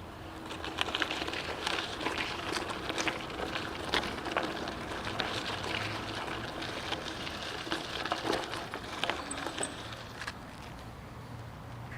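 Bicycle riding noise: a steady rush of tyre and wind noise with frequent small rattles and clicks, and a low hum coming in near the end.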